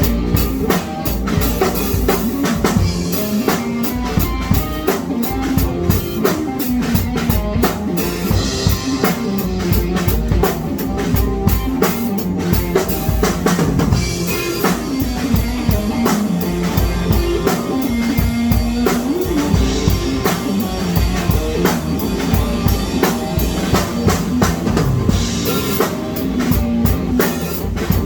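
Music led by a drum kit playing a steady, busy beat with bass drum and snare, over pitched instruments carrying a moving bass line.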